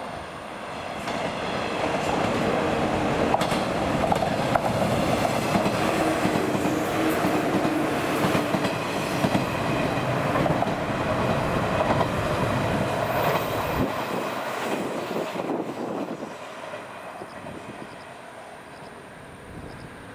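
JR West 113 series four-car electric multiple unit passing close by, its wheels clattering over the rail joints. The sound builds over the first two seconds, stays loud, and fades away from about fourteen seconds in.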